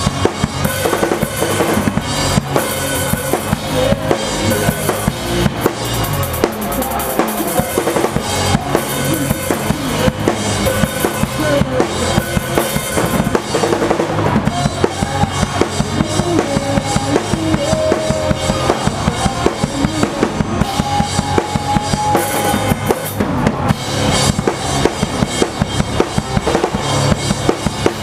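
Drum kit played live in a pop-punk song: kick drum, snare and cymbals driving a fast, steady beat, heard close up from the drummer's position.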